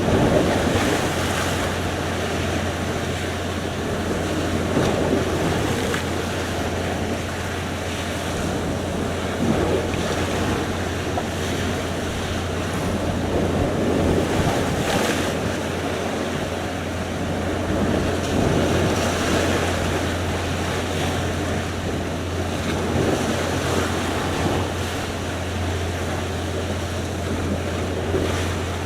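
Sea surf: waves washing in over a continuous rush of water, swelling about every four to five seconds, with a steady low rumble underneath.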